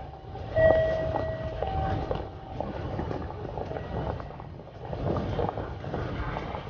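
Train running on rails: a steady low rumble with scattered clicks, and a few steady high tones sounding over it during the first couple of seconds.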